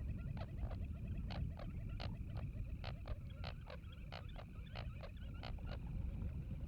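A waterbird giving a rapid, irregular series of short clucking calls, several a second, for about five seconds, over a low steady rumble of wind and water.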